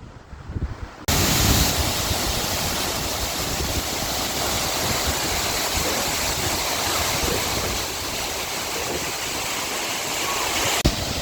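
Tortum Waterfall's falling water: a steady, even rush that cuts in suddenly about a second in, with a single knock near the end.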